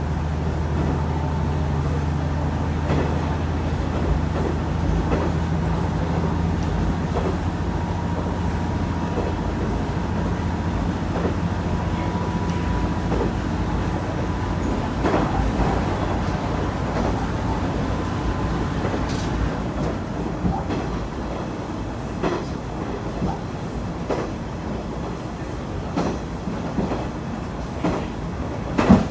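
Diesel railcar running on the Ban'etsu East Line, heard from inside the car: the engine's low drone under power for the first half, easing off about halfway, then the wheels clicking and knocking over rail joints as the car runs on.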